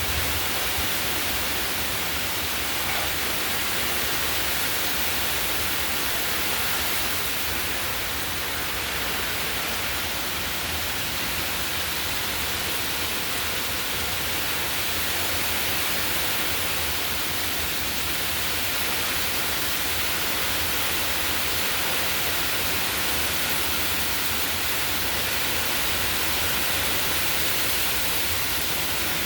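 Heavy hurricane rain pouring down steadily, an even hiss that holds without letup.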